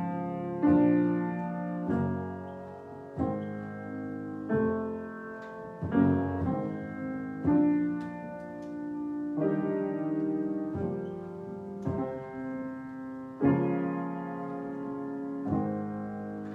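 Slow improvised piano playing: sustained chords struck about once a second and left to ring and fade.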